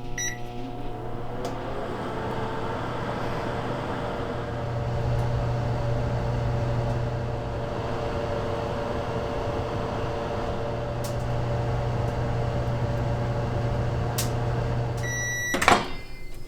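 Microwave oven running with a steady hum, roasting nuts. Near the end it gives a short beep and stops.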